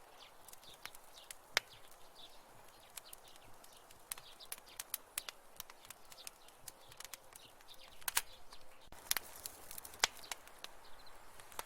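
Wood fire crackling in a fireplace: irregular sharp pops and snaps over a soft hiss, with a few louder pops near the end.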